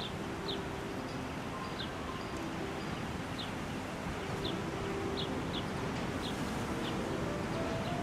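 A small bird calling with short, high, downward-sweeping chirps, repeated about every half second to a second, over steady outdoor background noise.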